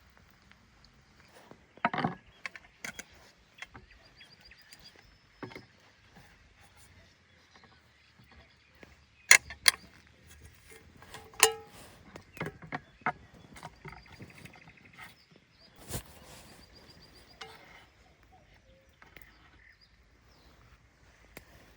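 Irregular knocks and clicks, a handful of them sharp and loud, over a quiet outdoor background.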